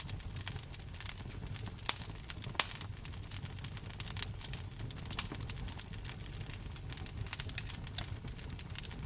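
Wood fire crackling in a fireplace: a dense, irregular run of small snaps and pops over a low steady rumble, with a few sharper pops about two, two and a half and five seconds in.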